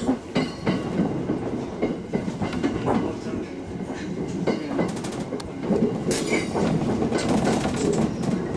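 Local train running on the Tsugaru Line, its wheels clicking and knocking irregularly over the rails under a steady running noise.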